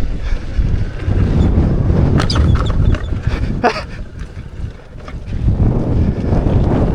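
Wind buffeting the microphone of a rider on an electric unicycle moving along a dirt trail, a loud low rumble that eases off for a moment about four seconds in, with a few short clicks.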